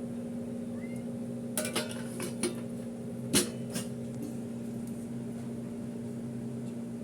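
A few sharp clinks of a dish or plate being knocked, the loudest a little after three seconds, over a steady electrical hum.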